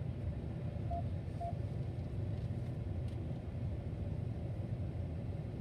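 Steady low rumble of a vehicle, with two short high beeps about half a second apart about a second in.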